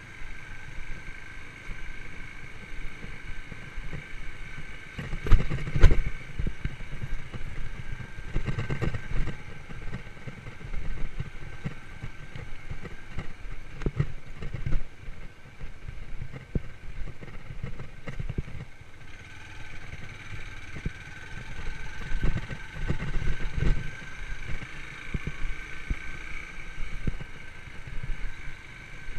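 Yamaha YBR125 motorcycle's single-cylinder four-stroke engine running while riding over a rough forest track. A steady high whine runs throughout, with frequent knocks and rumbling jolts, heaviest about five seconds in and again a little past twenty seconds.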